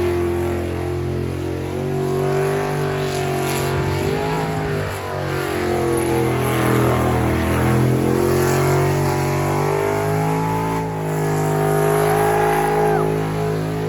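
Engine held at high revs during a burnout, its pitch dipping briefly and climbing back twice, with a haze of tyre and exhaust noise over it.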